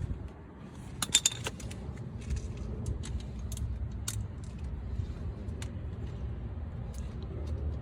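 Scattered metallic clinks and taps of hand tools on exhaust hardware, with a small cluster about a second in, as the new exhaust is being tightened up. A steady low hum runs underneath.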